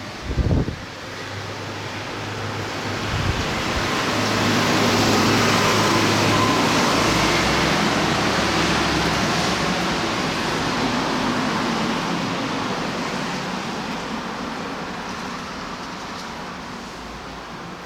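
A strong gust of wind builds over a few seconds, blows hardest for several seconds, then slowly dies away, with wind buffeting the microphone. A brief loud low buffet comes just after the start.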